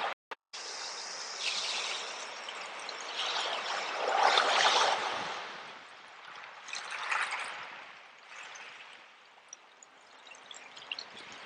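Sea waves washing onto a shore: a hiss of water that swells to its loudest about four to five seconds in, surges again more briefly around seven seconds, then ebbs away.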